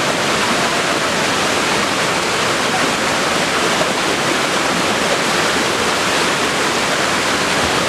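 Waterfall: water falling and splashing, a loud, steady rushing.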